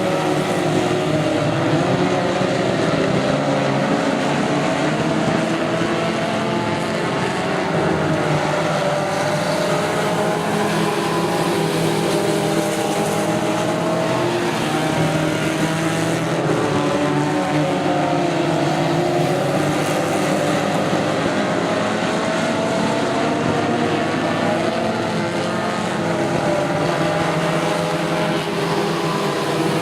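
Tough truck race engines running hard under racing throttle, their pitch rising and falling steadily.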